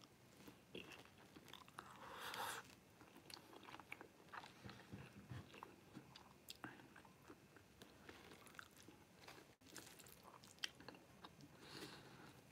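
Faint chewing and mouth sounds of someone eating noodles and beef, with scattered small clicks and one slightly louder click near the end.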